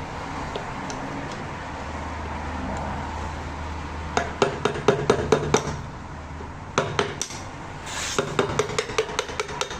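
Metal hand tools and small engine parts clinking and tapping against each other in quick runs of sharp, ringing knocks, over a steady low hum.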